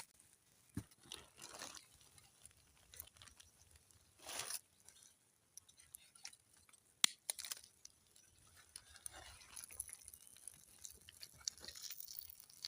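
Faint, scattered crackles and sharp clicks of a small wood fire burning low, with a brief rustle about four seconds in.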